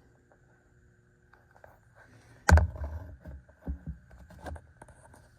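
A faint steady high hum, then a sharp thump about two and a half seconds in, followed by a few softer knocks and rustles, like something being bumped or handled.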